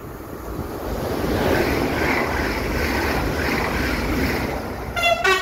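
Alstom Régiolis TER multiple unit running close past the platform: a loud rush of air and wheel-on-rail noise that builds about a second in and holds, with wind on the microphone. Near the end comes a short two-tone horn blast, a higher note dropping to a lower one.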